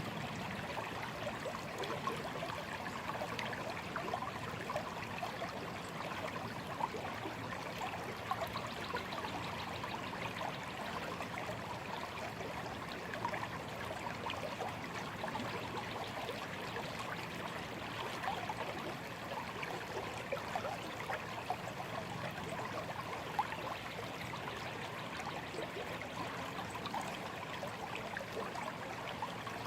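A shallow stream flowing and trickling steadily, with fine babbling and small splashes.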